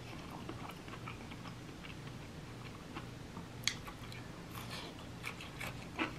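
Close-miked chewing and wet mouth sounds, quiet and scattered, with a sharper crisp bite into a cucumber slice a little past halfway.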